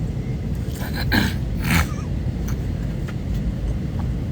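Steady low rumble of vehicle cabin noise, with two brief sharp sounds about a second in and just under two seconds in.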